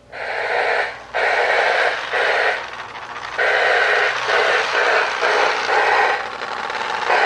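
O-gauge toy train whistle blowing in a run of breathy blasts, some long and some short, as the locomotive is pulled up.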